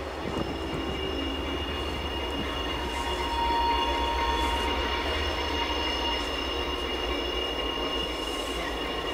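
Diesel locomotives of a passenger train running, a steady low engine rumble with a steady high-pitched squeal over it.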